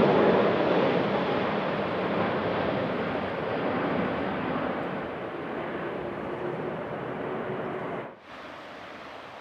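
Jet airliner passing, its engine noise a broad rush with faint steady tones, loudest at the start and fading away. About eight seconds in the sound drops suddenly to a quieter steady hiss.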